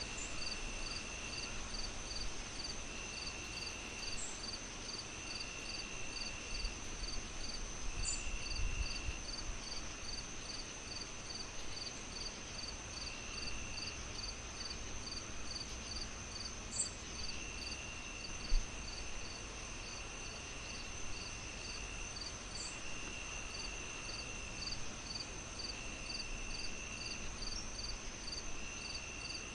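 Insects chirping steadily, one rapid chirp about two to three times a second, layered with a steady high drone and with trills of a second or two that come and go, over a faint hiss. A single sharp pop about two-thirds of the way in is the loudest moment.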